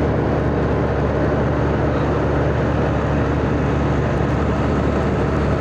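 Minibus engine running, a steady low drone that holds the same level throughout.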